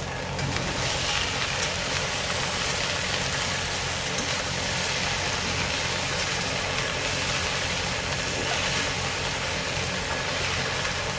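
Chopped okra sizzling steadily as it fries in a steel kadai, over a steady low hum.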